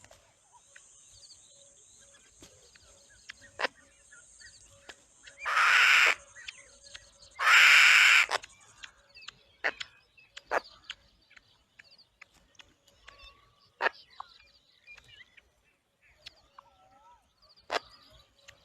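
Bird calls: two loud, harsh, hissing calls of about a second each, around six and eight seconds in, among scattered short chirps and sharp clicks over a steady high hiss.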